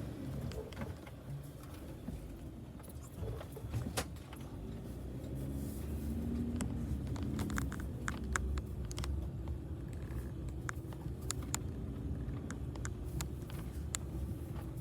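Steady low rumble of a vehicle moving slowly, with scattered light clicks and rattles throughout.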